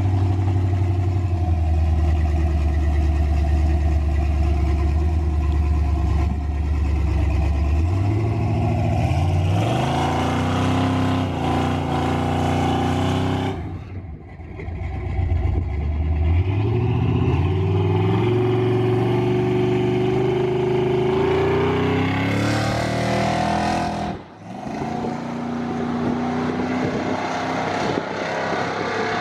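Carbureted V8 pickup truck engine on a full-throttle pass: a steady low note, then revving up through the gears with a sharp dip at a shift about 14 seconds in. It climbs again, drops off suddenly about 24 seconds in, and settles to a lower steady note.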